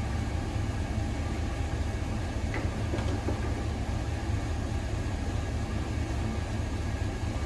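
Pickup truck engine idling steadily with a low, even rumble.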